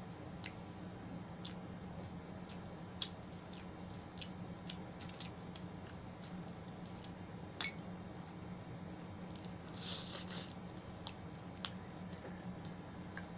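Wet chewing and squishy mouth sounds of a person eating, with scattered small clicks and a short, crisp noisy burst about ten seconds in, over a steady low hum.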